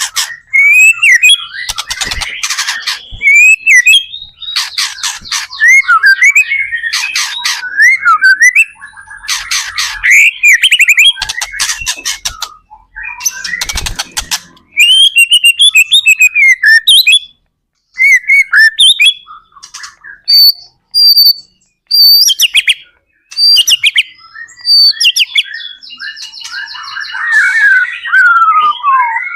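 White-rumped shama (murai batu) singing loudly: varied whistled phrases and rapid trilled bursts that follow each other with short pauses, in a song meant to provoke other shamas into answering.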